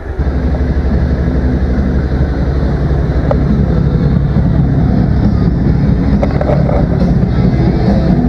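Suzuki SV650's V-twin engine running as the motorcycle is ridden, growing louder just after the start and then holding a steady low rumble, with some wind on the microphone.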